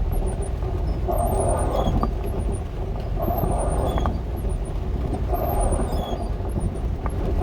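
Dodge A108 van driving, heard from inside the cab: a steady low road and engine rumble. Over it comes a swish with a squeak about every two seconds, like windshield wipers sweeping.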